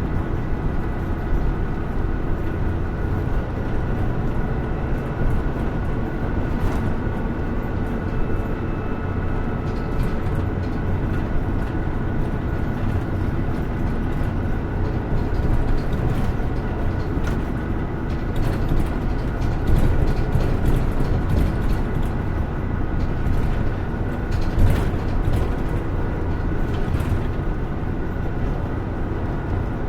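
Hino Rainbow II diesel route bus running steadily on the road, heard from inside the cabin: even engine and road noise with a few steady tones above it and scattered small rattles. There is one sharper knock near the end.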